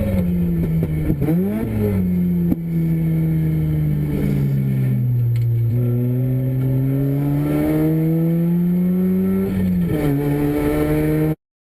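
Mazda Renesis two-rotor rotary engine in a race car running hard on track. Two quick rev blips near the start, then the pitch sags, climbs steadily for several seconds and drops sharply about ten seconds in. The sound cuts off abruptly just before the end.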